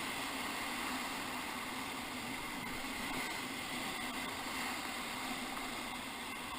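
Steady rushing of whitewater in a river rapid, an even noise without distinct splashes or breaks.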